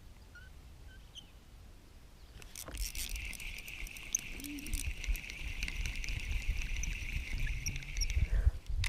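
A fishing reel being cranked: a steady whirring with fine clicking that starts about two and a half seconds in and stops just before the end, over low rumbling handling noise.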